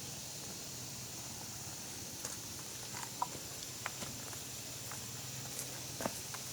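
Steady faint background hiss with a few scattered light clicks and taps from about two seconds in.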